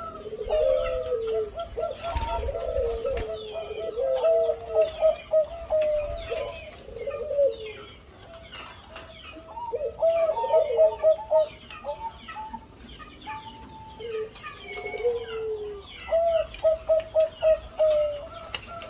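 Zebra dove (perkutut, Bangkok type) cooing: several phrases of quick, evenly repeated low notes, each with lower, drawn-out notes that slide down in pitch. There is a pause of a few seconds about halfway through, and a last quick run near the end.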